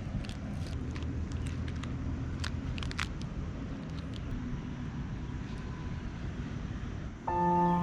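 Low, steady outdoor rumble with scattered short clicks. About seven seconds in, bell-like ambient music starts suddenly with ringing held tones.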